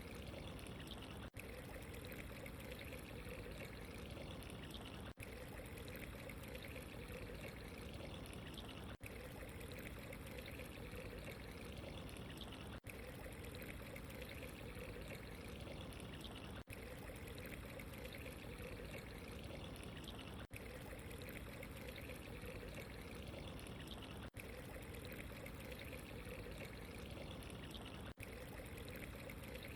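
Steady running water, trickling and pouring without change, with a very brief dip in the sound about every four seconds.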